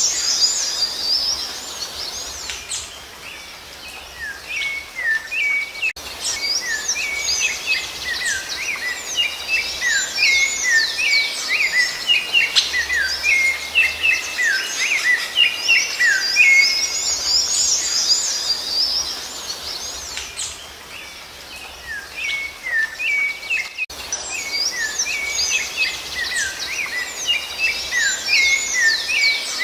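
Rufous-bellied thrush (sabiá-laranjeira) song within a busy chorus of chirping birds: rapid, repeated slurred whistles and twitters, thinning out briefly a few seconds in and again about two-thirds through.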